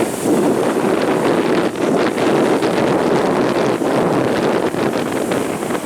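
Strong wind buffeting the microphone, loud and steady with irregular gusts, over the surf of a stormy sea.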